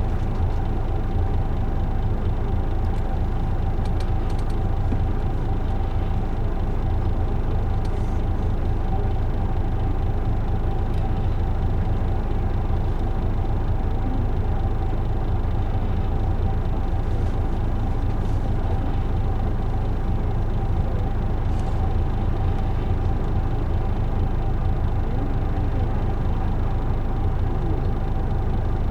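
Isuzu Erga PJ-LV234L1 city bus heard from inside the cabin: its diesel engine runs steadily with a low rumble and a constant mid-pitched tone, with a few faint clicks here and there.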